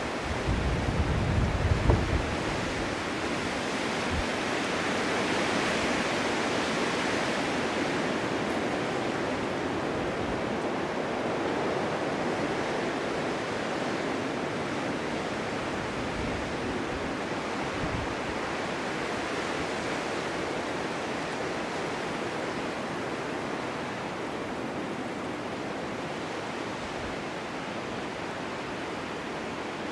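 Winter snowstorm wind blowing steadily, with a low gusty rumble in the first two seconds, a slight swell about six seconds in, then slowly easing.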